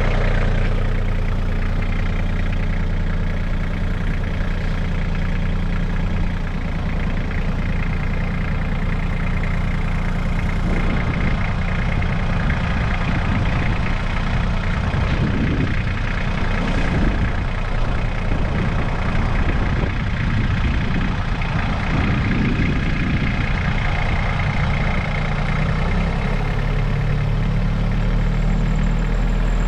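AGCO ST30X compact tractor's diesel engine idling steadily. For a stretch in the middle its sound wavers and turns uneven, then it settles back to a steady idle near the end.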